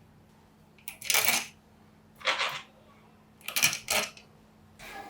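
A few short handling sounds of tool parts: a click, then brief rasping bursts about a second apart, with a small click near the end.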